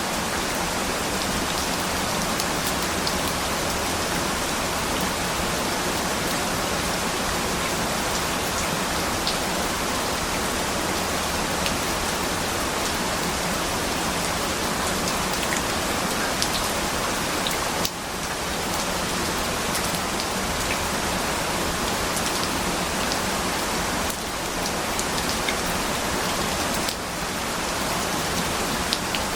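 Steady rain: a dense, even hiss with scattered sharp drop ticks. The level dips briefly three times in the second half.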